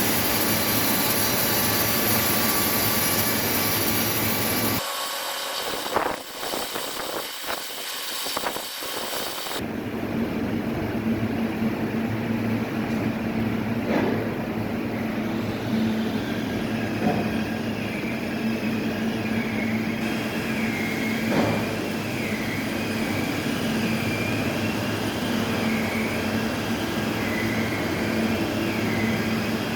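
Heavy sawmill machinery running with a loud, steady mechanical drone that changes abruptly twice in the first ten seconds. Later, a steady hum carries a high whine that wavers up and down, with a couple of sharp knocks.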